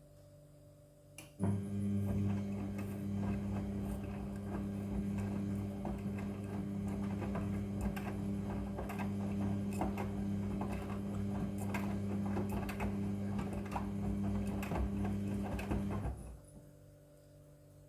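Front-loading washing machine running: a steady low hum with a rapid scatter of clicks and rattles. It switches on with a click about a second and a half in and cuts off sharply near the end.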